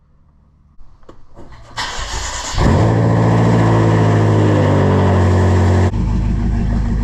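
Cold start of a straight-piped BMW M5 F10's twin-turbo V8: the starter cranks briefly and the engine catches about two and a half seconds in with a loud flare. It holds a high, slowly falling idle, then drops abruptly to a lower, steadier idle near the end.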